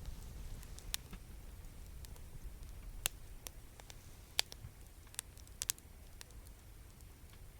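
Wood campfire crackling: scattered sharp pops, a handful over a few seconds, over a low steady rumble.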